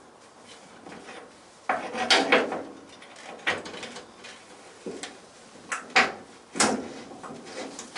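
Irregular clunks, knocks and scraping of metal as a classic Mini's front subframe is worked loose. The heaviest knocks come about two seconds in and again near six seconds.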